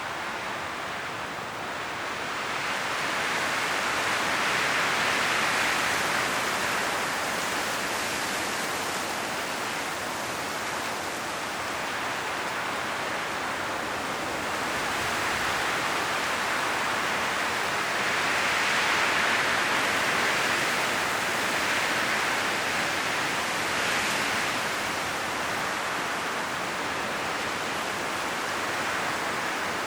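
Strong wind blowing through trees, rustling the autumn leaves in a steady hiss that swells in slow gusts, loudest twice, around a quarter and two-thirds of the way through.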